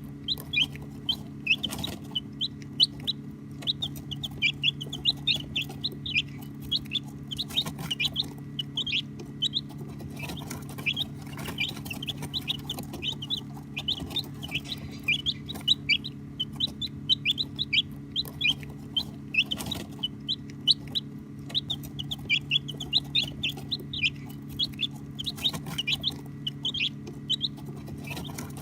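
A group of baby chicks peeping: many short, high-pitched chirps overlapping in a rapid, continuous chatter. A steady low hum runs underneath, with a few faint knocks.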